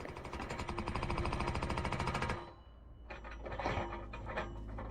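Post driver attachment on a Yanmar excavator pounding a fence post in a rapid, even stream of hammer blows, which stop abruptly about halfway through. After that the excavator's engine runs with a few scattered knocks.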